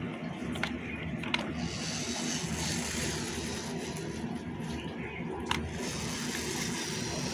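Small electric motor and gearbox of a homemade RC tractor running steadily, with a few sharp clicks.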